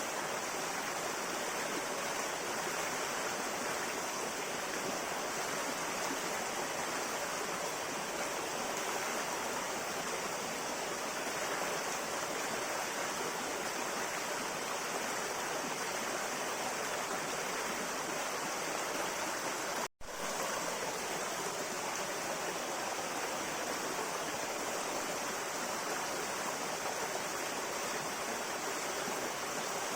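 A river flowing steadily over stones, an even rushing and babbling of water. About two-thirds of the way through it cuts out for a split second and comes straight back.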